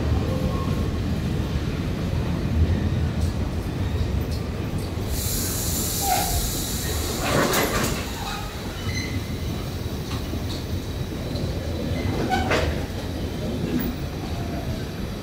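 Taiwan Railways train at a station, with a steady low rumble. A high hiss starts suddenly about five seconds in and stops a couple of seconds later, with a sharp sound near its end and another about twelve seconds in. The rumble eases a little after the hiss.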